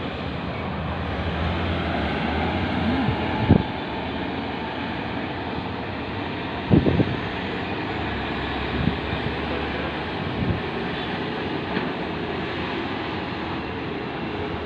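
Heavy haul truck running steadily, with several brief low thumps.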